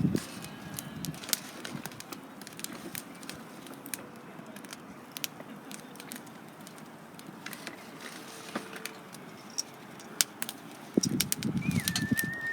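Wood campfire crackling, with sharp pops at irregular intervals. Near the end comes a low rustling or knocking, and a bird gives a short thin whistled call.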